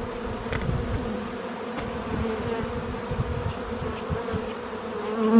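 Honeybees buzzing around an open hive: a steady hum, with irregular low rumbling on the microphone. The sound cuts off abruptly at the end.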